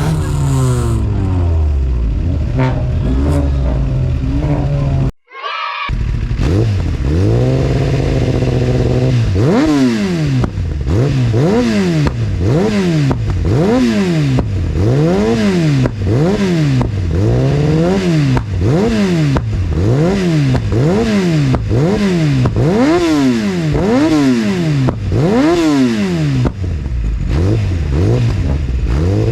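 Kawasaki Ninja ZX-10R inline-four with an Akrapovic full exhaust system revved again and again, the engine speed climbing and dropping roughly once every second and a half. The exhaust pops and backfires as the revs drop.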